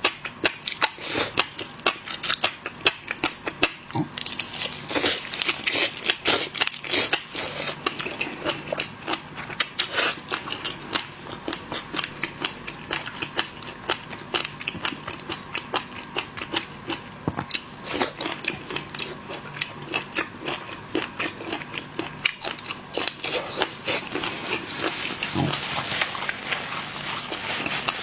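Close-miked eating of shellfish: shells cracking and crunching along with chewing, a dense run of irregular sharp clicks.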